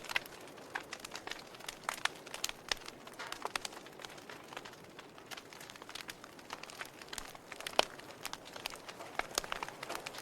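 Wood fire crackling in a fireplace: irregular snaps and pops over a soft hiss, with one louder pop near the end.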